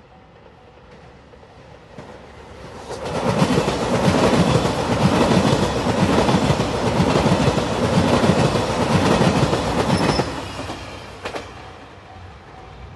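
JR Shikoku 2700 series diesel train passing close by, its wheels clattering over the rail joints. The sound builds about two seconds in, stays loud, and drops away sharply about ten seconds in.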